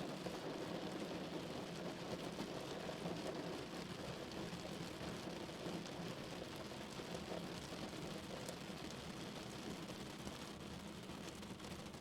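Steady rain falling on a car, heard from inside the cabin: dense fine drop impacts over an even hiss, heaviest in the low-mid range.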